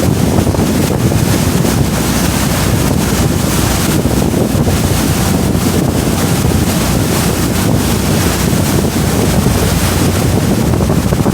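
Wind buffeting the microphone aboard a moving boat, over the steady rush of water and the boat running beneath it.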